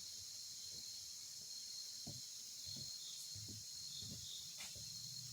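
A steady, high-pitched chorus of crickets chirring, with a few soft, low knocks scattered through it.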